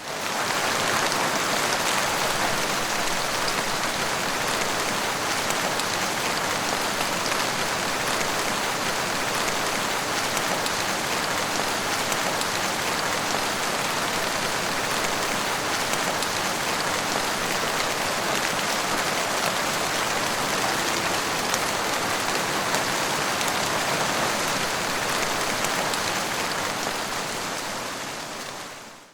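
Heavy rain falling, a steady dense hiss of patter. It fades in at the start and fades out near the end, with no thunder.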